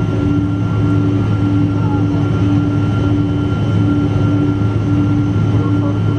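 Boeing 777-200 cabin noise: a steady engine and airflow drone with a low hum and a few constant whining tones, one of them pulsing about once a second.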